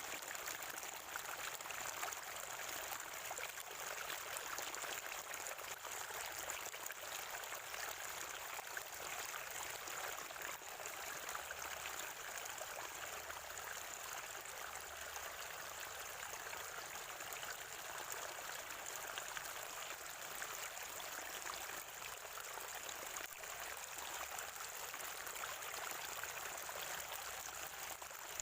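Spring water flowing and gurgling in a steady stream.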